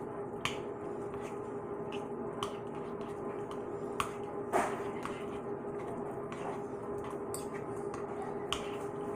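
Spoon stirring macaroni and cheese in a bowl: soft squishing with a few scattered light clicks of the spoon against the bowl, over a steady background hum.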